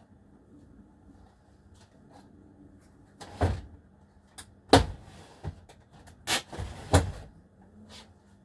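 Hard objects being handled and set down on a surface: a series of sharp knocks and clacks, four of them louder, starting about three seconds in and ending around seven seconds, with faint clicks between.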